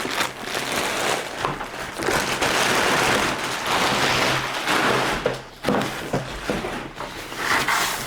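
Handling noise from unpacking: plastic wrap and packaging rustling and crackling, with scattered knocks as the vacuum is moved about.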